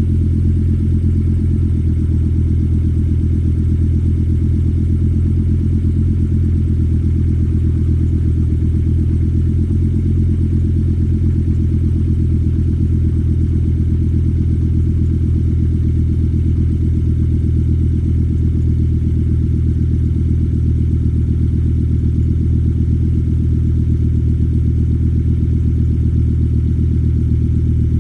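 2006 Volvo S60 T5's turbocharged inline five-cylinder idling steadily after a cold start, its exhaust note coming through an IPD catback exhaust.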